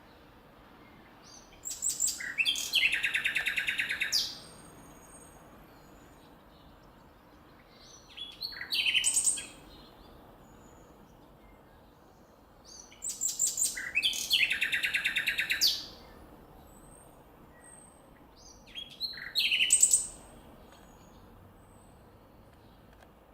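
Nightingale singing: four song phrases of fast repeated notes and trills, each a second or two to three seconds long, separated by pauses of several seconds.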